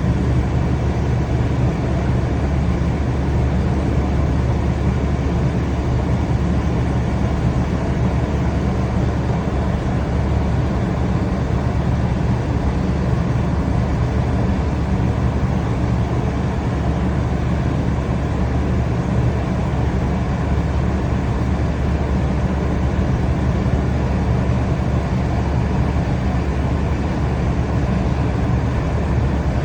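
Train running at a steady speed: a constant low rumble with an even hiss above it, unchanging throughout.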